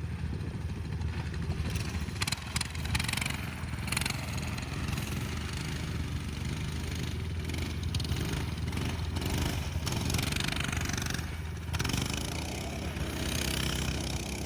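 Dirt bike engine running steadily, with a few clicks about two to three seconds in.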